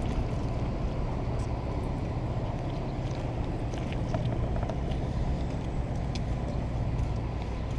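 An engine running steadily: an even, low drone with faint scattered ticks on top.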